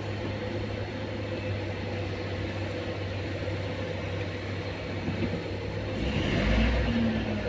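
Heavy vehicle engine running steadily, then revving up about six seconds in, with a louder low rumble and rising pitch near the end.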